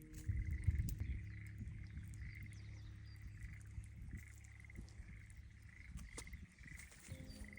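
Schlegel's green tree frogs calling in chorus, short pulsed calls repeating about every half second, over a low rumble that is loudest about a second in.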